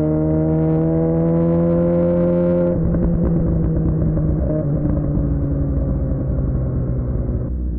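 Suzuki GSX-R600's inline-four engine through a Yoshimura R11 exhaust, pulling with a steadily rising pitch under throttle, then the throttle closes about three seconds in and the engine runs rougher as the pitch slowly falls while the bike slows.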